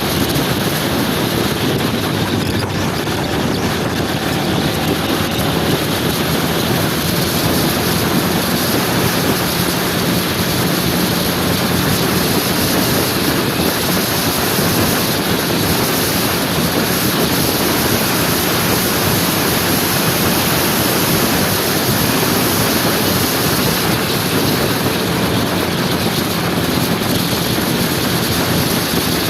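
Motor scooter on the move: a steady rush of wind over the microphone, with the engine's even hum underneath.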